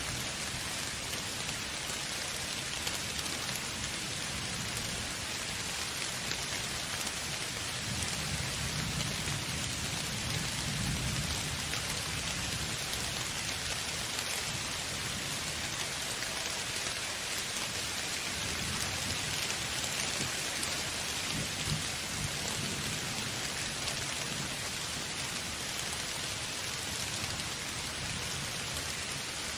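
Steady rain falling, an even hiss throughout, with a low rumble of thunder swelling and fading about eight to twelve seconds in.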